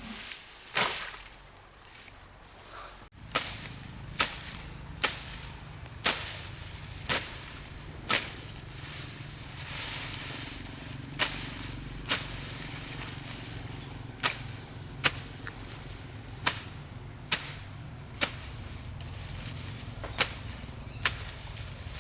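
Repeated sharp knocks of a hand tool striking wood, about one a second, with a short pause partway through, over a low steady hum.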